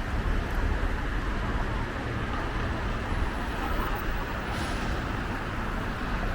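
City road traffic: a steady rumble of passing vehicles.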